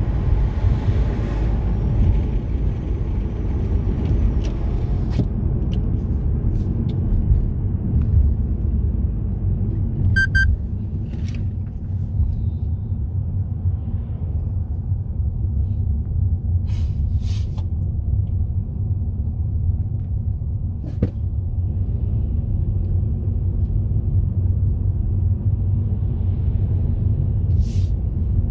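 Steady low rumble of a car driving, engine and tyre noise, with a few faint short clicks and ticks scattered through it.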